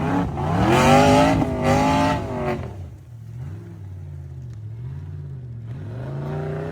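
Off-road 4x4 engine revving hard with its pitch rising and falling, then dropping to a quieter, uneven run about two and a half seconds in, the revs swinging up and down and climbing again near the end.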